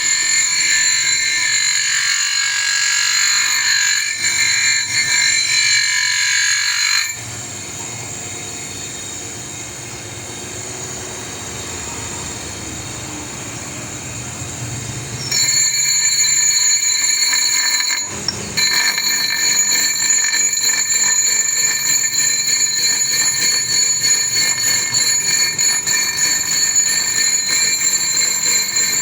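Electric power tool running with a steady high-pitched whine. About a third of the way in the whine stops, leaving a quieter low rumble for some eight seconds, then it starts again abruptly and runs on.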